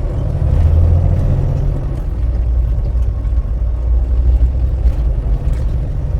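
Semi-truck running: a steady low rumble, a little stronger in the first couple of seconds.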